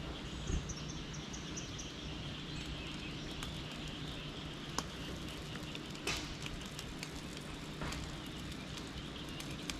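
Buttered bread frying in a pan with a steady low sizzle. A few light clicks come from a spoon against the pan, and a bird chirps briefly about a second in.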